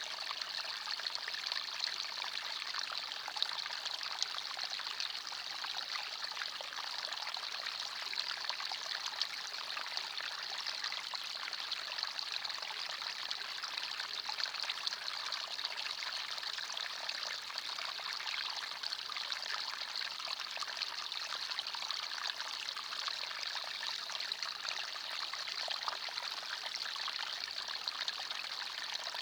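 Forest stream flowing and trickling steadily: an even, unbroken rush of water, high in pitch.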